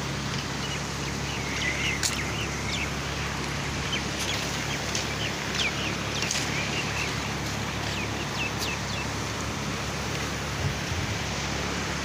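Birds chirping in short, scattered calls over a steady rushing background noise.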